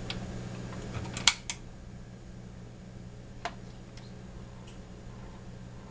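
Sharp plastic clicks from handling a 1:18 diecast model police car: a quick cluster about a second in, then a single click near the middle and a few faint ticks, over a steady low hum.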